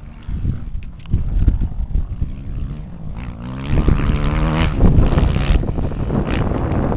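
Off-road motorcycle or quad engine, with wind buffeting the microphone; about three and a half seconds in the engine revs up, its pitch climbing, and it stays loud at high revs after that.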